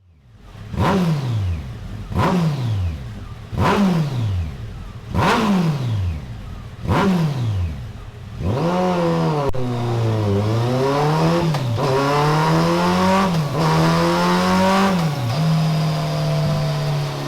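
Kawasaki ZZR1400 inline-four revving through twin Delkevic SS70 stainless steel oval silencers on a dyno: five quick throttle blips, each falling back to idle. Then it runs on steadily, the revs climbing and dropping back sharply three times before holding steady.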